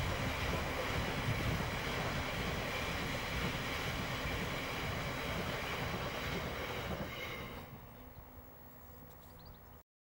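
Freight train's covered biomass hopper wagons rolling past on the rails in a steady rumble. About three-quarters of the way in, the last wagon passes and the sound drops and fades, then cuts off just before the end.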